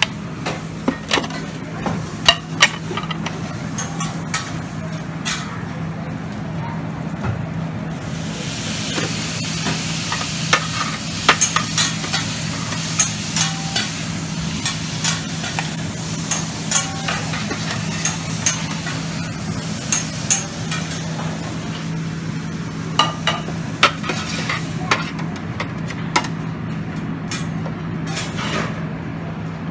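Food sizzling on a Mongolian barbecue grill, a loud hiss from about eight seconds in to about twenty-five seconds, with metal serving tongs clicking against steel food pans throughout, over a steady low hum.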